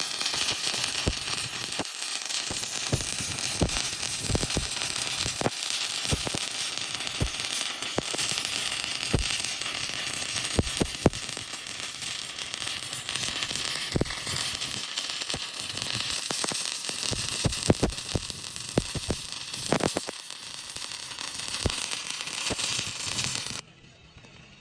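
Electric arc welding on an excavator boom: a steady crackling hiss of the arc with frequent sharp pops, which stops suddenly near the end as the arc is broken.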